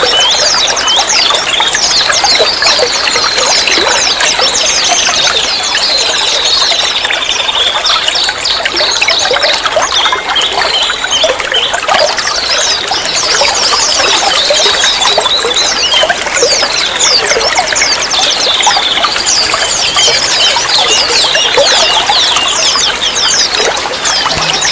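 Water running and trickling steadily, with many small birds chirping and twittering over it in quick, high, down-slurred notes and a wavering high trill now and then.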